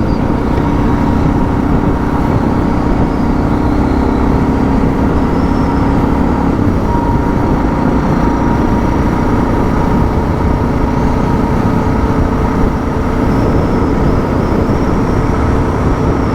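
Suzuki DR650's single-cylinder engine running at a steady cruise on a sealed road, with steady wind and road noise.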